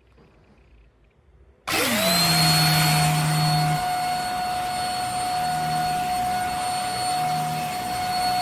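YUFAC handheld mattress vacuum switched on about two seconds in, its motor spinning up quickly to a steady high whine over rushing airflow. A lower hum fades in and out every second or two.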